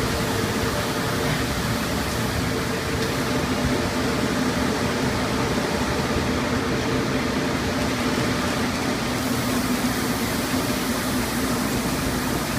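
Conveyor car wash tunnel machinery running: a steady rush of noise with a constant low hum.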